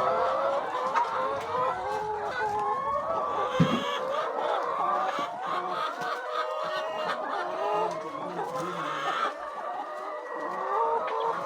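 A flock of chickens clucking and calling over one another, many short calls overlapping throughout.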